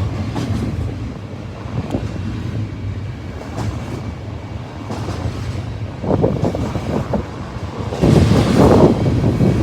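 Long train passing directly underneath: a steady low rumble with rushing noise, growing louder about six seconds in and again near the end. Wind buffets the microphone.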